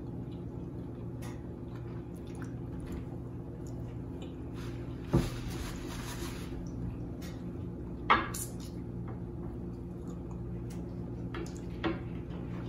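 Wet, squishy chewing and mouth sounds from someone eating a sauce-dipped seafood boil, with three sharp smacks, about 5, 8 and 12 seconds in. A steady low hum lies underneath.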